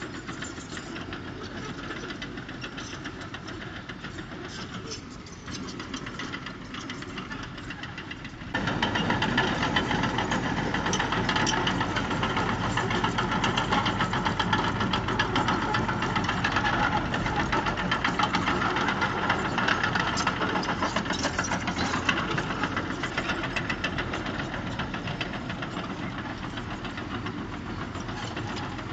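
Diesel engine of heavy earthmoving machinery running with a rapid clatter; about eight and a half seconds in it abruptly gets louder and stays loud.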